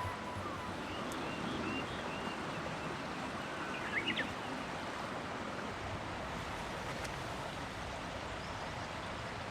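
Steady rushing of water outdoors, with a few short high chirps about one to two seconds in and again about four seconds in.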